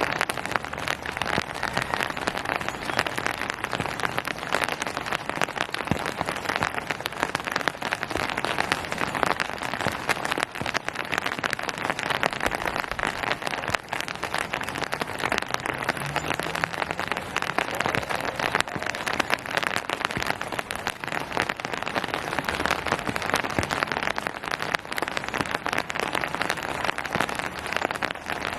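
Steady rain: a dense, even patter of countless drops hitting surfaces, continuous with no letup.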